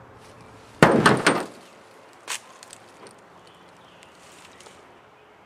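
A sledgehammer strikes a reflex sight resting on a sheet-metal car hood a little under a second in. There is one sharp metallic impact, then a quick rattle of following knocks for about half a second, and a lighter single knock about a second later.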